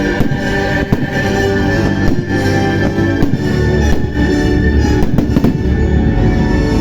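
Fireworks going off in a run of sharp bangs and pops over the show's loud accompanying music.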